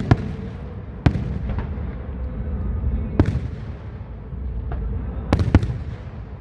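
Aerial fireworks shells bursting: six sharp bangs, a close pair at the start, single bangs about one and three seconds in, and another close pair about five seconds in, over a steady low rumble.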